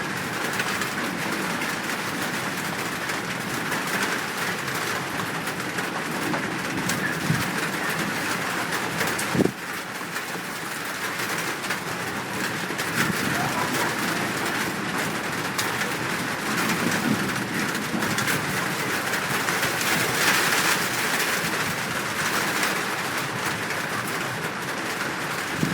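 A chorus of wild birds calling, including dove-like cooing, over a steady hiss. There is one sharp click about nine seconds in.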